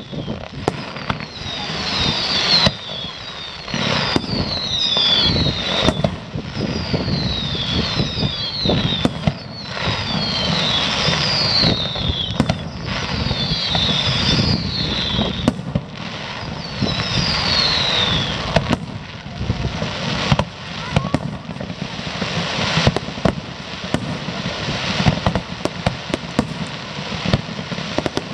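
Fireworks display: a dense run of bangs and crackling from bursting aerial shells. Through roughly the first two-thirds, a string of high whistles falls in pitch, then the bangs and crackling carry on alone.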